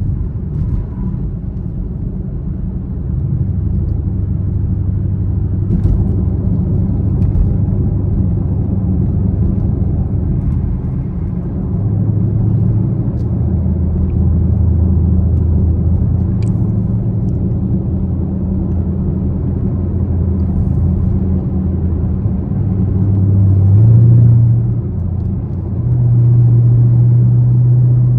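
Camaro SS V8 engine and exhaust droning under way, heard from inside the cabin. The engine note steps up and down in pitch several times as the throttle changes, with louder, higher pulls near the end.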